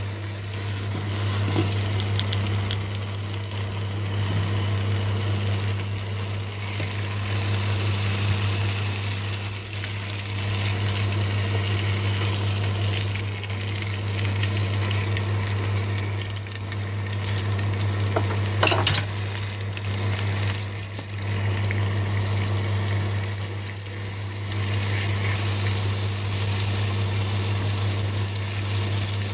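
Raw potato chunks frying in hot oil in a nonstick pan: a steady sizzle, with a sharp knock about two-thirds of the way through as pieces are handled, over a steady low hum.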